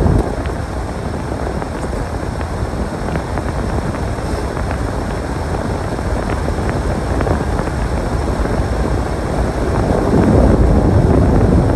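Storm wind buffeting the microphone: a continuous low rumbling rush that eases just after the start and strengthens again near the end.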